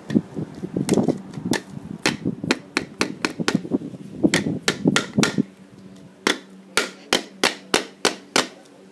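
Hammer blows striking an object over and over: a quick, irregular flurry of hits in the first half, then a steadier run of about three blows a second.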